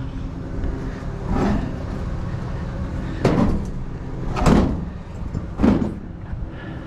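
A heavy item being shoved and bumped against a pickup truck bed: four separate knocks and scrapes a second or so apart, the two in the middle the loudest.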